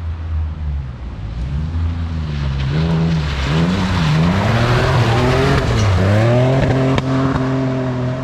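Holden Commodore rally car's engine revving hard on a stage, its pitch climbing and dropping several times as the driver works the throttle and gears, then holding high near the end, over a steady rush of tyre and road noise.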